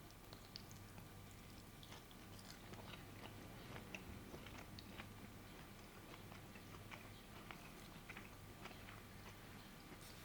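Faint chewing with small crunchy clicks scattered throughout, over a low steady hum.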